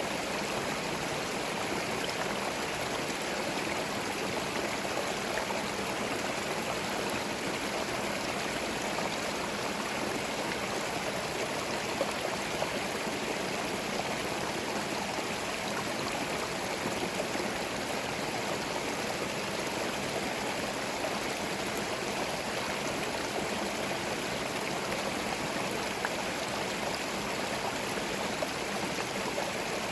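A small forest stream running steadily over stones, a continuous babble and gurgle of flowing water.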